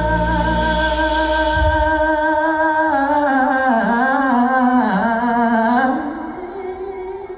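Live band music at the close of a song: a long held sung note over the band, the bass dropping out about a second and a half in, then the voice bending up and down in a short run before the music falls away about six seconds in, leaving a quieter lingering tone.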